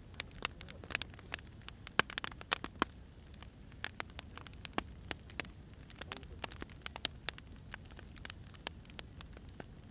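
Wood fire burning, with irregular sharp crackles and pops of the firewood over a low steady rumble.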